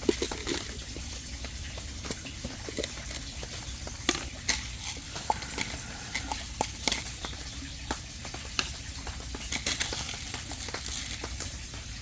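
Koi feeding at the water surface: irregular wet pops and slurps as they gulp floating food, some louder than others, over a steady low hum.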